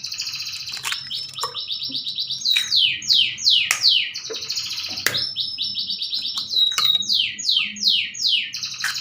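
A songbird singing loudly without a break: rapid trills and repeated downward-sweeping whistled notes. A few sharp knocks or clicks are heard in between.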